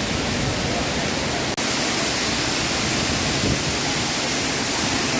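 Waterfall rushing, a steady, dense roar of falling water that cuts out for an instant about a second and a half in.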